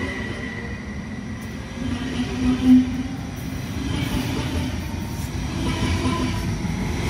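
SBB double-deck S-Bahn electric train rolling slowly along the platform, a steady rumble of wheels and running gear. A brief, louder low tone comes about two and a half seconds in.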